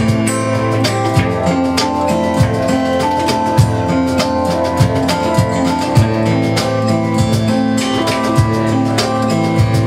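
Live band music: strummed guitar with bass and a drum kit keeping a steady beat.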